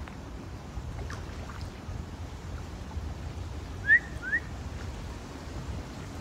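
Steady low wind rumble on the microphone, with two short whistled bird chirps, each rising then falling, about four seconds in.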